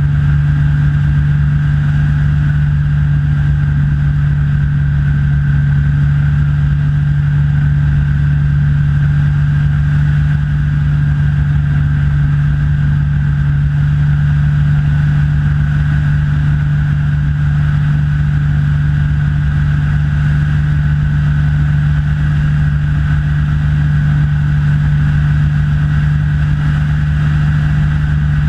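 Rans S6 light aircraft's engine and propeller running steadily at cruise, an unchanging loud drone with a strong low hum, heard from inside the cockpit.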